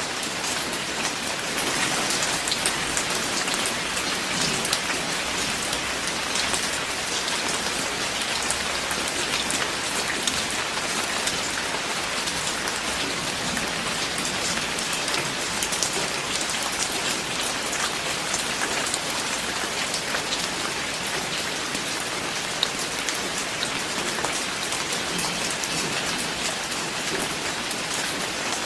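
Steady rain falling, an even hiss of noise with many fine drop ticks, unchanging throughout.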